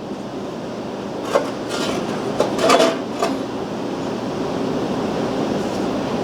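Steady mechanical whoosh of workshop machinery, with a few short metallic clatters of tools being handled in the first half.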